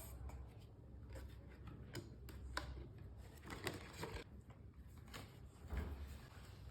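Faint scattered taps and clicks of toy pieces being handled and set in place, over a low steady hum.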